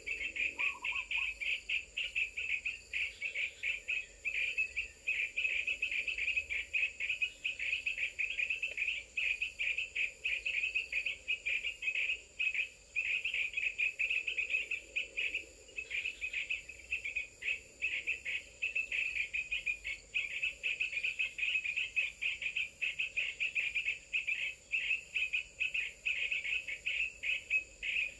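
Insects chirping in a continuous, rapid, high-pitched trill that barely pauses, with a faint steady high whine above it.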